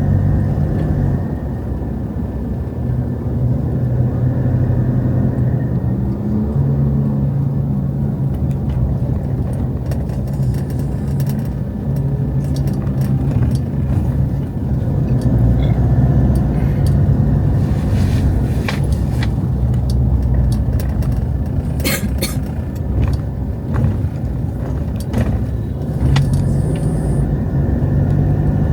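Road traffic: car engines running close by with a steady low hum, pitch shifting slightly at times, with a few sharp clicks and knocks in the second half.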